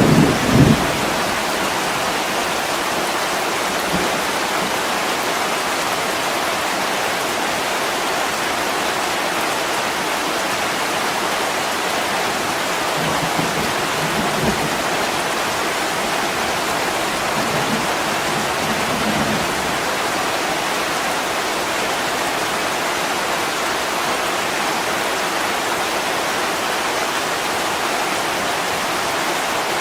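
Heavy rain pouring steadily on a window pane. A thunder rumble dies away in the first second, and a couple of faint low rumbles come through near the middle.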